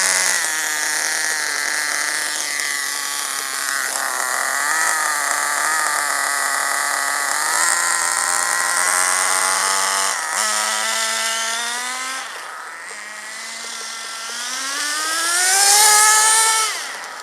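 Vertex .18 two-stroke nitro glow engine in an RC buggy running and being worked with the throttle, its pitch stepping up and down and then climbing steeply near the end before falling away. The high-speed needle has just been richened, and the full-throttle running is the growl of a good high-speed setting.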